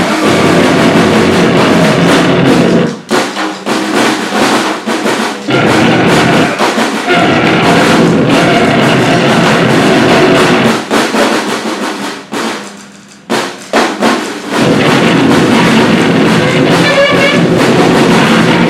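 Live noise-grind performance: fast, dense drumming buried in a very loud wall of harsh noise. The noise chops and drops out in stuttering breaks about three seconds in and again around twelve seconds, then slams back in full.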